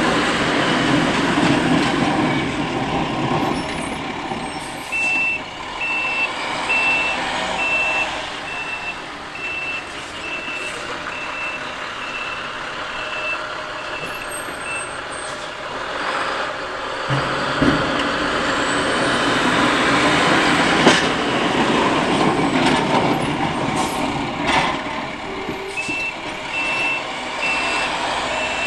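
International dual-axle dump truck plowing snow, its engine running throughout; a steady backup-alarm beep sounds as it reverses from about five seconds in to about fifteen, and starts again near the end. A few sharp knocks come in the middle.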